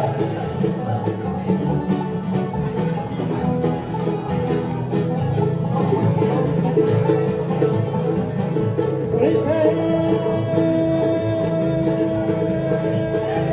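Bluegrass band playing an instrumental passage, banjo picking over guitar rhythm. About ten seconds in, a long held note slides in on top.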